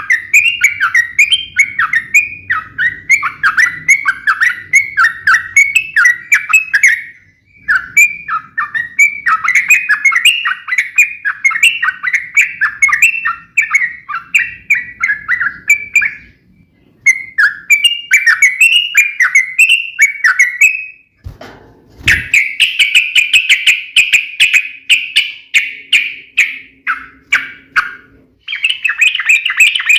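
Yellow-vented bulbul (trucukan) singing its sharp, rapid fighting song, long fast runs of chirping notes broken by short pauses. A brief low thump about two-thirds of the way through.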